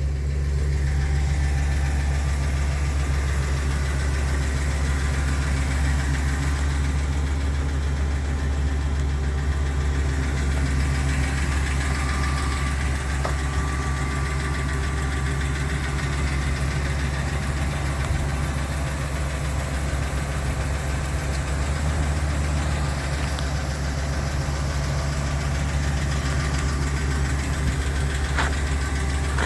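Ford E-450 box truck's engine idling steadily.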